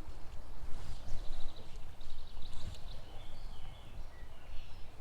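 Small birds calling: two short rapid trills, then a few thin chirps, over a steady low rumble.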